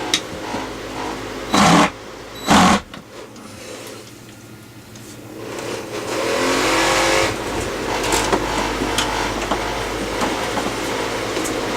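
DeWalt cordless power tool: two short loud bursts about a second apart, then the motor winding up with rising pitch and settling into a steady run with small clicks.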